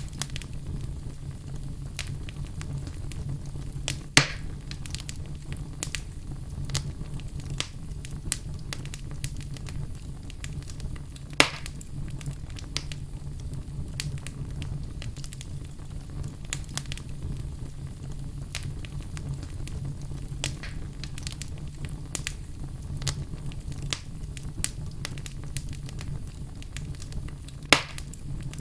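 Wood fire burning in a fireplace: a steady low rumble with constant light crackling and three louder, sharp pops of the logs.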